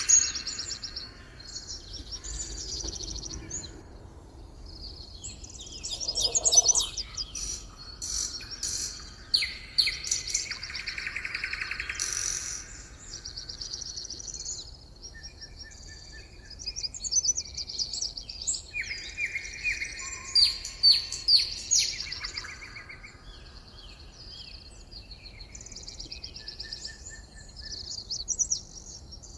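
A chorus of several songbirds singing and calling over one another: rapid trills and chirps, with a lower call sliding down in pitch about six seconds in.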